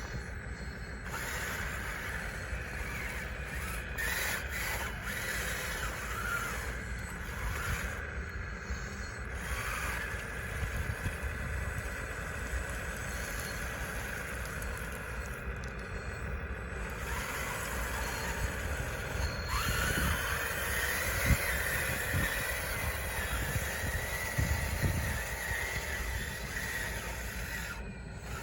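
Electric drive motors and gear trains of a radio-controlled bulldozer whining, the pitch rising and falling as it moves, over a steady low rumble.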